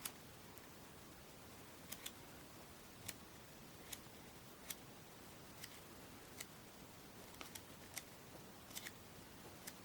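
Faint, sharp paper clicks roughly once a second, some in quick pairs, over low hiss: the pages of a small paper booklet being leafed through.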